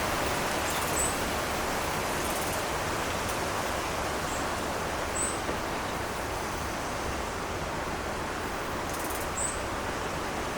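Small birds giving four brief, very high, thin calls over a steady outdoor hiss.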